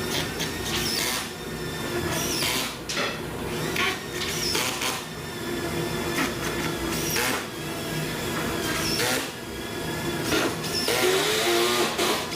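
A steady mechanical hum with irregular sharp knocks and clicks throughout, the sound of tool work on a timber build.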